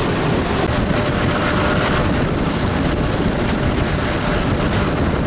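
Heritage railway train running along the line, heard from an open carriage window: a steady rumble of wheels on track mixed with wind noise.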